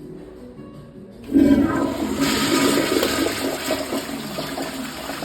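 Vortens Tornado toilet flushing: a sudden loud rush of water starts about a second in and carries on, easing slightly toward the end.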